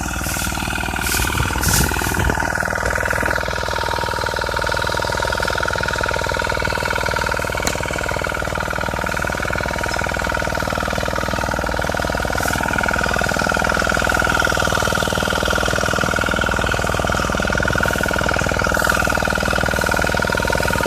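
Honda generator engine running steadily with a constant whine and hum, which the mechanic takes for a worn-out, failing engine that may soon stall. A few sharp clicks sound in the first two seconds.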